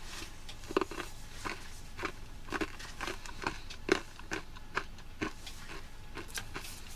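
Close-up chewing of M&M's candies, their hard candy shells crunching in short, irregular bites.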